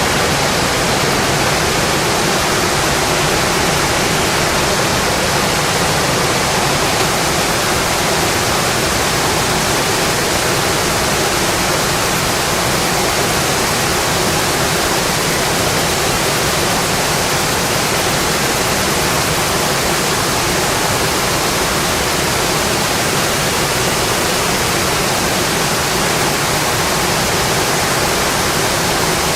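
Steady rainfall, an even, unbroken hiss of falling rain.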